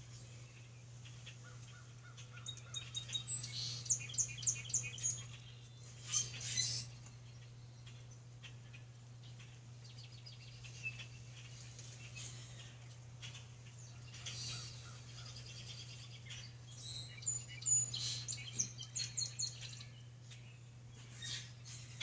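Wild birds singing: a fast series of repeated high notes, heard twice, with scattered chirps between, over a steady low hum.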